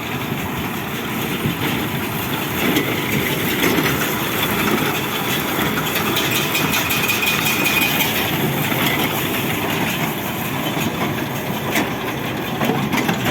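Tractor engine running while a small square hay baler works behind it, with a steady mechanical clatter.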